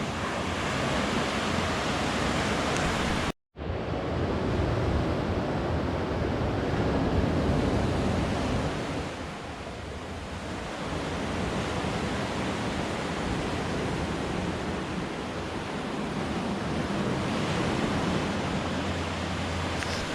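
Sea waves washing ashore on a beach, heard as a steady rushing noise with wind buffeting the microphone. The sound drops out completely for a moment about three and a half seconds in, then carries on.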